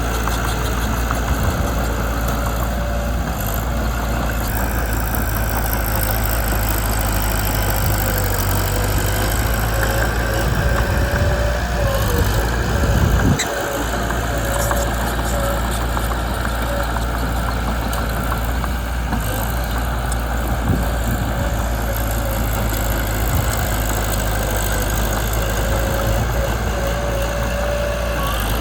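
Mitsubishi BD2 bulldozer's diesel engine running steadily, briefly dropping off about halfway through, with a thin wavering squeal now and then.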